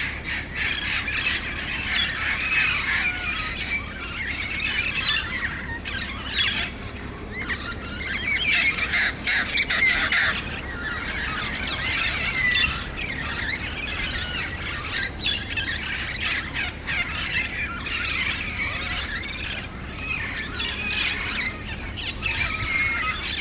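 A large flock of feral green parrots squawking and chattering nonstop, many harsh calls overlapping at once.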